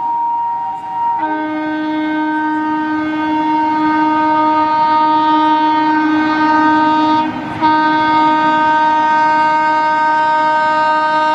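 Indian Railways locomotive horn sounding one long, loud multi-tone blast. The blast shifts pitch about a second in, breaks off briefly past the middle, then carries on, over the running noise of the train.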